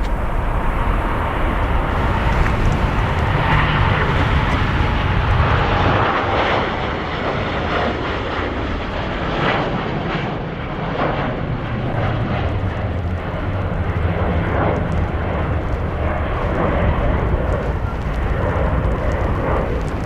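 Jet airliner's engines running loud and steady, with a faint whine falling in pitch during the first several seconds.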